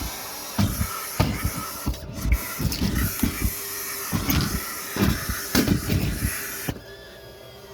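Car wash vacuum hose drawing air with a steady hissing rush, broken by irregular thumps and rattles as it sucks up trash. About 6.7 s in, the rush of air drops away abruptly.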